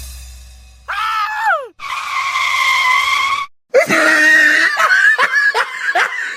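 High-pitched cries: one falling cry, then one long held cry, then a quick run of short falling cries about two or three a second.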